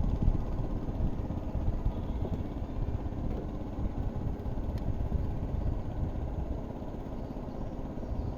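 Strong wind buffeting the microphone, a low rumbling noise that swells and dips with the gusts.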